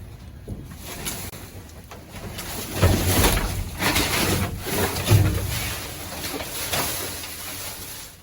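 Plastic trash bags being grabbed and handled, a crinkling rustle that swells in several louder surges, with a couple of dull low thumps about three and five seconds in.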